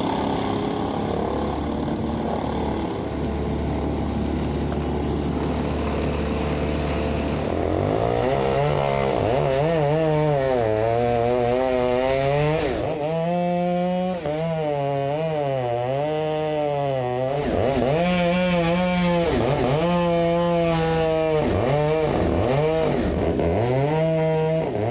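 A steady engine hum, then about seven seconds in a chainsaw revs up and cuts, its pitch rising and sagging over and over as it works through the wood and bogs in the cut, with brief drops in revs around 13 and 17 seconds in.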